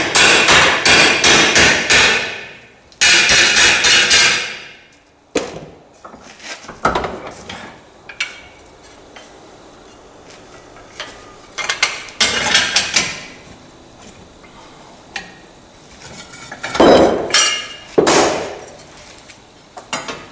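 A hammer striking a small metal part to bend it into shape: a rapid run of blows, about four a second, then a second short run, then scattered lighter knocks and a few louder single hits near the end.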